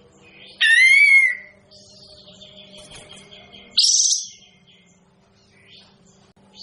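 Kapas tembak, a bulbul, calling twice. About half a second in there is a loud, arching whistled note with a harsh edge, and near the end a higher, noisier call, both over a faint steady hum.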